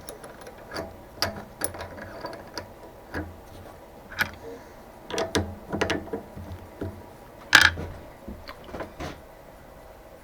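Irregular metallic clicks and clinks from hand work on a metalworking machine after drilling has stopped, with one louder clank about seven and a half seconds in, over a faint low hum.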